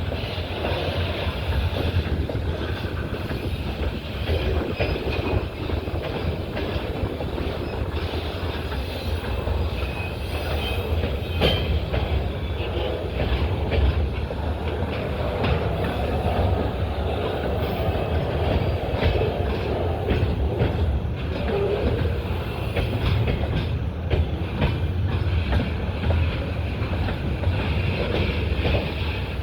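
Freight train behind a VL85 electric locomotive rolling along the track: steady low rumble and a continuous clickety-clack of wheels over the rail joints. Short wheel squeals come through about a third of the way in and again past the middle.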